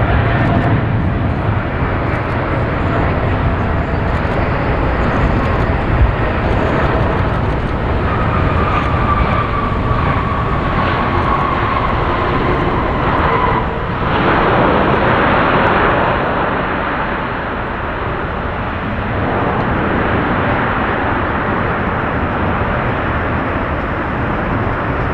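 Boeing 777F's twin GE90 turbofans at takeoff thrust, a steady jet noise with a thin whine that slides down in pitch as the freighter passes. The noise swells about halfway through, then eases slightly as it climbs away.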